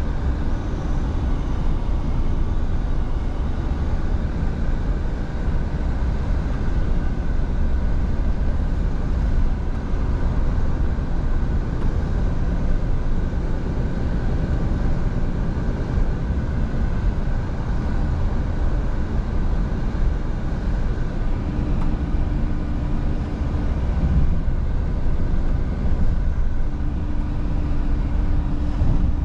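Scania V8 truck on the move, its engine and road noise running steadily, with a low drone that comes and goes.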